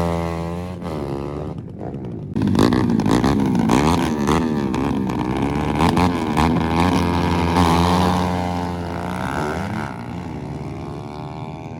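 Motorcycle engines at a drag race. The engine note fades out in the first two seconds; then, about two and a half seconds in, engines come in loud and rev up and down repeatedly before easing off near the end.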